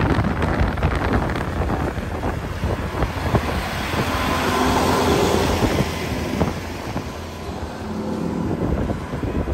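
Strong blizzard wind buffeting the microphone in heavy, uneven gusts. A faint engine hum runs underneath and comes through more clearly around the middle and again near the end.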